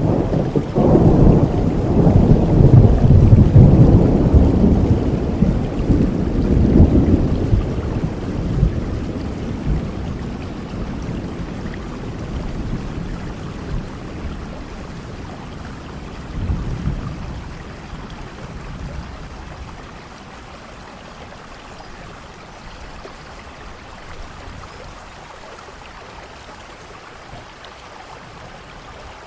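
Thunderstorm: a long, loud roll of thunder rumbling over the first several seconds and slowly dying away, a shorter, quieter rumble about halfway through, over steady rainfall.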